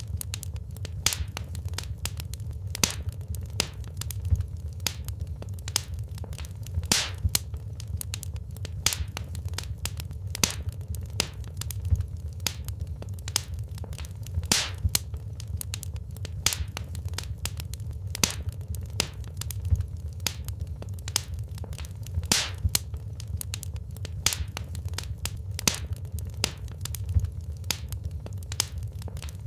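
Wood fire crackling in a fireplace: irregular sharp pops and snaps of burning logs, several a second, over a steady low rumble of the flames.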